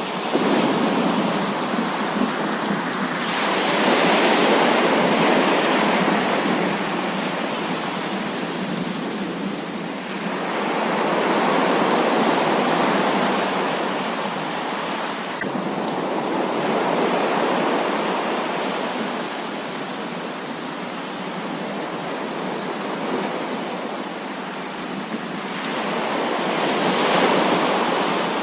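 Heavy rain falling as a continuous dense hiss, swelling louder and easing off in slow waves several times.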